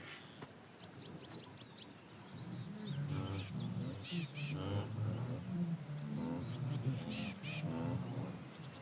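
Small birds chirping rapidly, then from about two seconds in a zebra's repeated harsh barking calls join in over them.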